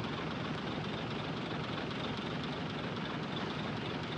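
Heavy diesel earthmoving machinery running with a steady, even engine rumble.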